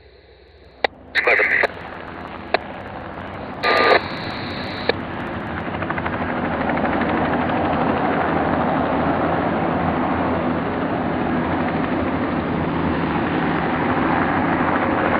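Helicopter engine and rotor noise swells up over a few seconds and then holds steady. Before it, near the start, come a few short clicks and radio squelch bursts.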